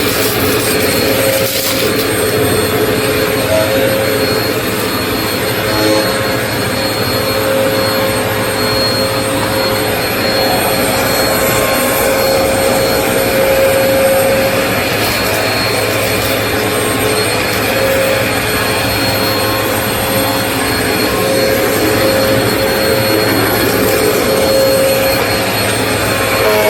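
Vacmaster UC0101 bagless upright vacuum running steadily on its bare-floor setting, its motor giving a constant whine over a loud rush of air as it is worked over test debris on a hard floor.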